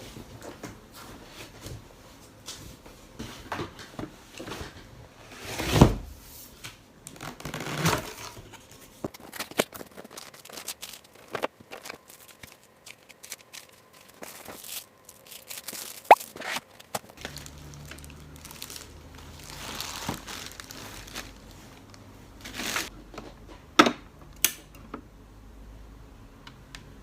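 Packaging being handled and torn open while an espresso machine is unboxed: paper and plastic crinkling and tearing, with scattered clicks and a few sharp knocks. A low steady hum comes in a little past halfway.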